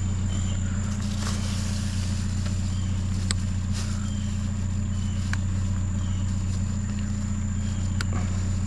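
Small pickup truck's engine idling steadily, a low even hum, with a few faint clicks over it.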